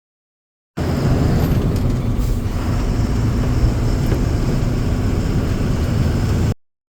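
Vehicle running, a steady low engine and road rumble that cuts in about a second in and cuts off abruptly near the end.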